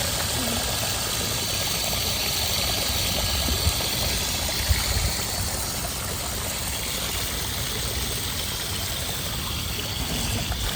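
Water running and splashing steadily as feet and sandals are rinsed of sand.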